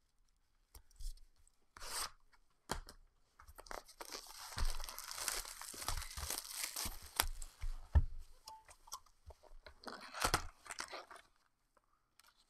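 Plastic wrap on a trading-card hobby box being torn and crinkled off, with knocks and clicks from the cardboard box being handled. The tearing and crinkling is densest from a few seconds in until about halfway, with sharp knocks a few seconds either side of it.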